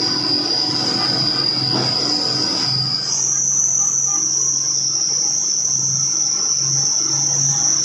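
A steady, high-pitched insect drone, like a cicada chorus, that jumps up in pitch about three seconds in, over the low hum of a truck engine.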